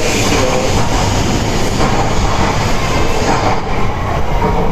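Shinkansen train noise: a steady, even rumble and rush with no distinct clatter or squeal.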